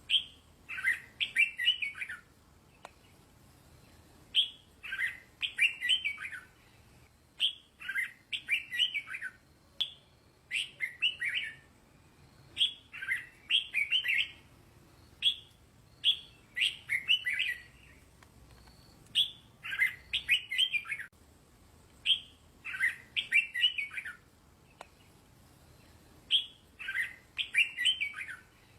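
Red-whiskered bulbul singing: short, bright, chirpy song phrases repeated every second or two, the kind of teacher-bird song used to train young bulbuls.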